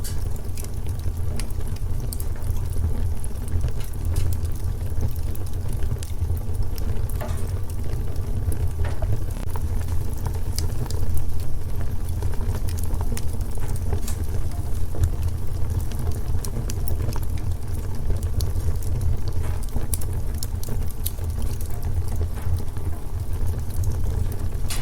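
Wood fire burning in a fireplace, a steady low rumble of flames with frequent small crackles and pops from the burning logs.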